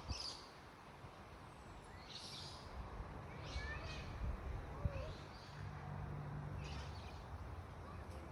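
Birds chirping in short, scattered bursts over steady outdoor background noise, with a low hum in the middle.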